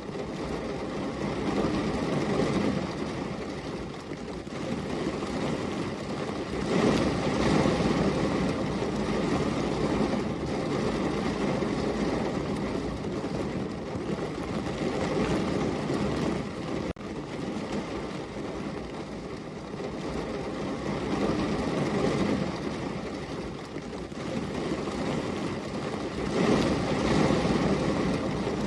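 Rain falling steadily, a dense hiss that swells and eases every few seconds.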